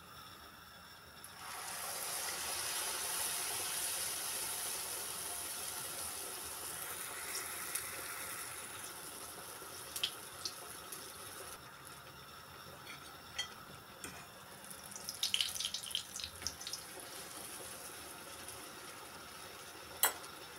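Pişi dough frying in hot oil: a hiss of sizzling starts suddenly about a second in and slowly dies down, followed by scattered clicks and a short burst of crackling and clattering later on.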